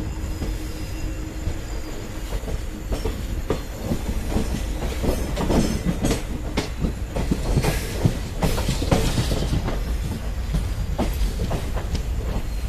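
Matsyagandha Express passenger coaches running along the track, heard from an open doorway of the moving train. The wheels clatter irregularly over rail joints above a steady rumble, and the knocking grows busier and louder around the middle.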